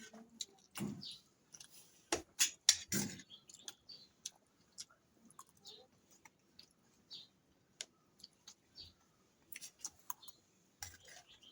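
Close-miked chewing and mouth sounds of someone eating fried rice: irregular wet clicks and smacks, louder bites near the start and a cluster near the end.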